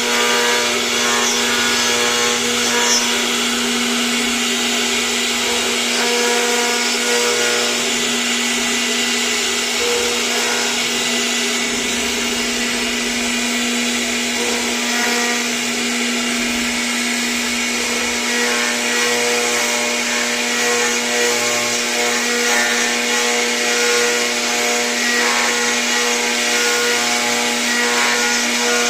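CNC router spindle running steadily as it cuts, a constant high whine over a rough cutting hiss.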